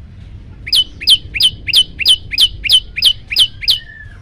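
Prenjak lumut (a prinia) calling: a run of ten sharp, loud notes, about three a second, each sweeping quickly down in pitch, starting about a second in.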